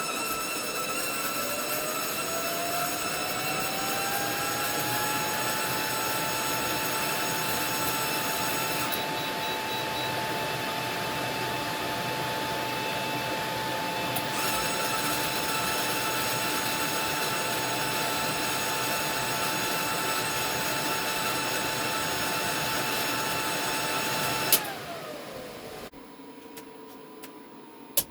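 MIG welder running off a single LV6548 off-grid inverter under welding load: a steady hiss and hum with several high whining tones, one of them rising in pitch over the first few seconds and then holding. About 24 seconds in there is a sharp click and the whine winds down as the welder's 20 amp breaker trips.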